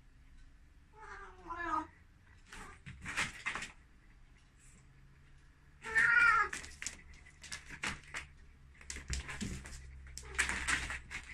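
Ragdoll cat meowing loudly in drawn-out, wavering calls. There are two main meows, one about a second in and a louder one about six seconds in, with shorter noisy sounds between them.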